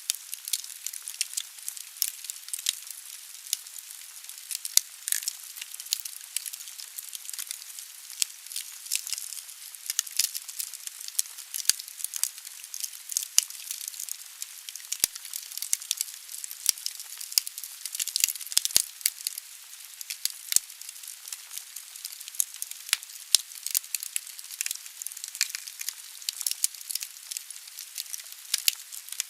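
Firewood burning in a fireplace: a steady hiss of the flames with many irregular sharp crackles and pops of the burning logs.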